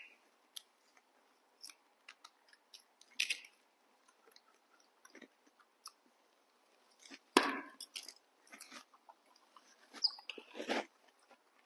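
Crunchy chewing of June apple fruit: scattered bites and crunches, loudest about seven seconds in and again around ten seconds.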